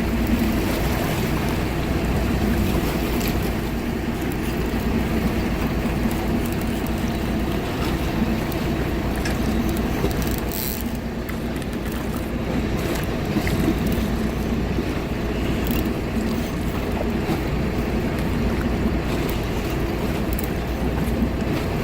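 Boat engine running steadily, with wind on the microphone and water noise.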